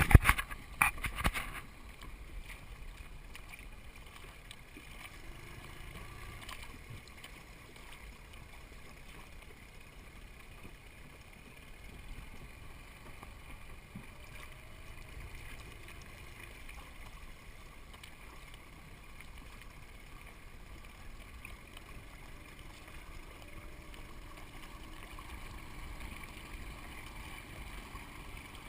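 Water gurgling and lapping along the hull of a small sailboat under way, a steady low wash of noise. A few sharp knocks near the start.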